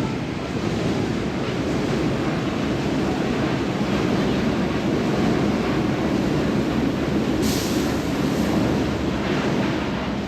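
A steady low rumble of passing traffic, with wind on the microphone and a brief high hiss about seven and a half seconds in.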